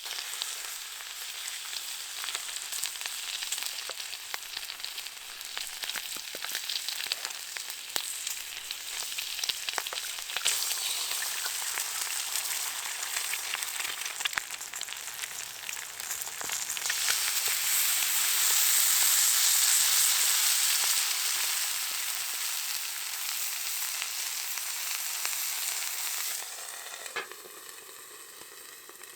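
Breakfast frying in a pan over a wood fire: steady sizzling with fine crackles. It grows louder a little past the middle and dies down sharply near the end.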